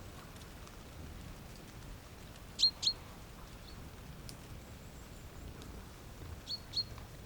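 A bird calling with short, high notes: a quick pair about two and a half seconds in, and another pair near the end.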